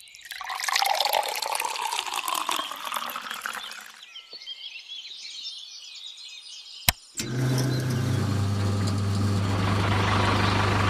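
A rush of water with a falling pitch for about four seconds, then a quieter stretch, a sharp click, and from about seven seconds a steady low engine hum, typical of a truck engine running.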